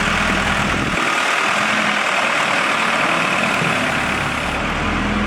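Diesel engine of a 1998 Case 580 Super L loader backhoe running steadily. Its deep low rumble drops away about a second in and comes back near the end.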